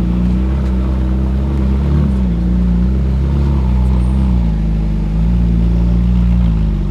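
Ferrari 458's V8 engine running at low revs as the car rolls slowly, its note wavering with small rises and dips in pitch.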